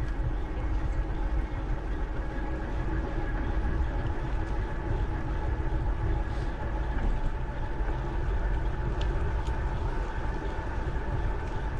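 Steady rumble of wind buffeting an action camera's microphone on a moving bicycle, mixed with rolling noise from the bike, with a few faint ticks.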